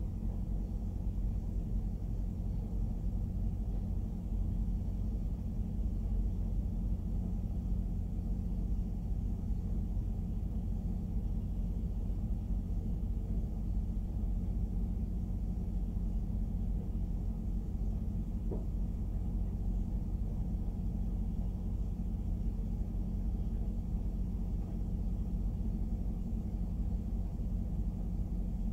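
Freight train of covered grain hopper cars rolling steadily past, a continuous low rumble of steel wheels on rail.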